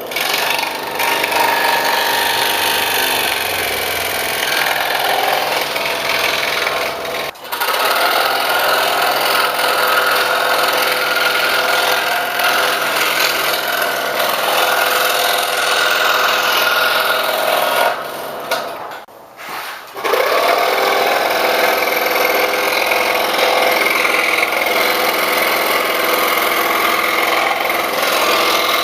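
Scroll saw with a number 1 Flying Dutchman ultra reverse tooth blade cutting interior holes in birch plywood, a steady buzzing saw-and-wood sound. It cuts out briefly about seven seconds in, then stops for over a second near nineteen seconds before the motor spins back up.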